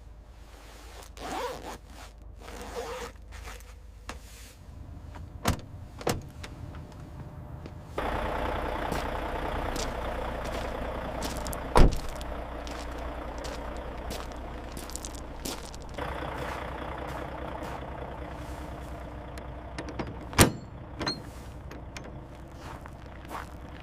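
Truck cab sounds: a steady low hum with a few sharp clicks and knocks, the loudest about halfway through.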